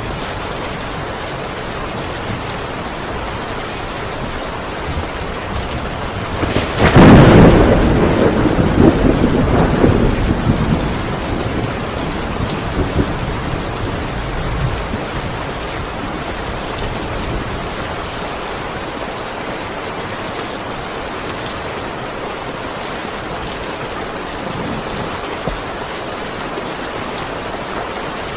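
Heavy rain falling steadily. About seven seconds in, a loud thunderclap starts suddenly and rumbles away over several seconds, and then only the rain is left.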